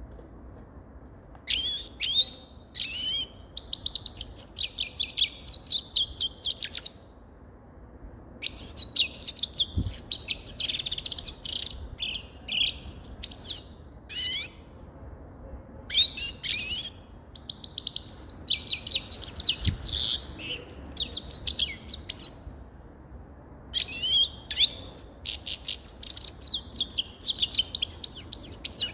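Grey-headed goldfinch singing: four bouts of rapid, high twittering song, each several seconds long, separated by short pauses.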